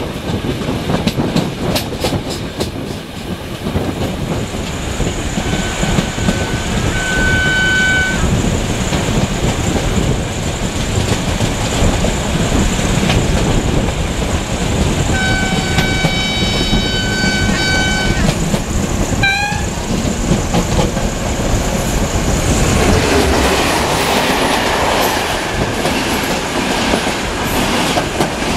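Diesel-electric locomotive's horn sounding as a passenger train approaches: two short blasts about six seconds in, then two longer blasts around the middle. Underneath runs the steady rumble and clack of train wheels on the rails, which grows busier near the end as the coaches pass close by.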